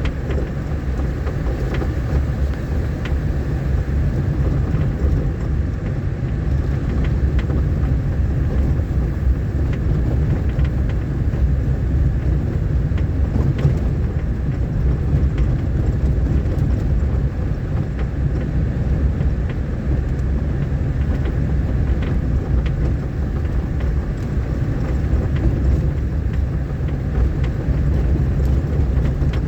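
Steady low rumble of a vehicle driving over a rough, rain-damaged dirt road, with scattered faint knocks and rattles.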